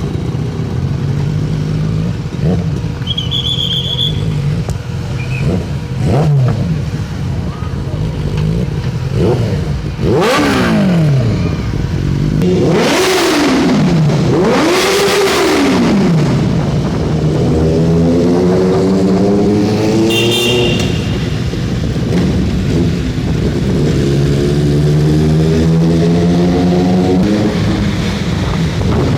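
Superbike engine running and being revved: a few sharp blips whose pitch shoots up and falls back in the middle, then two longer rising revs. Two short high-pitched beeps sound, one early and one in the middle.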